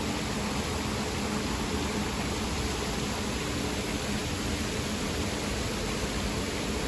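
Water cascading down a waterfall wall: a steady, unbroken rush, with a faint low hum underneath.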